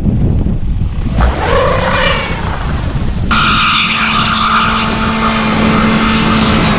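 Car engine being revved hard, with wind noise on the microphone. About a second in it rises and falls in pitch, then holds a high, steady pitch for about three and a half seconds before cutting off suddenly near the end.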